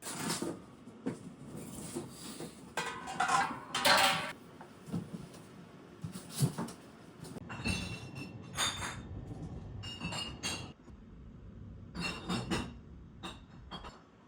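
Dishes and kitchen utensils clattering and clinking: a string of irregular knocks, several leaving a brief metallic ring, with a louder cluster about three to four seconds in.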